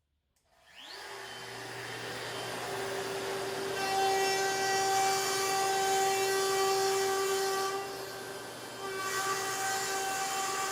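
Electric woodworking power tool starting up with a rising whine that settles into a steady high hum, then working wood from about four seconds in, with a short lull near eight seconds before it cuts again.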